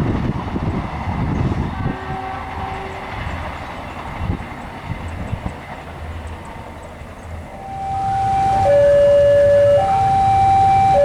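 A train running past with a rumbling, clattering wheel noise that slowly fades. About eight seconds in, a loud two-tone warning signal starts up, switching between a high and a low note about once a second.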